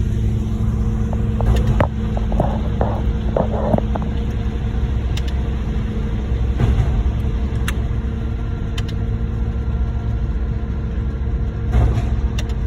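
Heavy diesel truck engines running steadily during a concrete pump pour: a continuous low rumble, with a few sharp clicks and knocks, one pair about two seconds in and another near the middle.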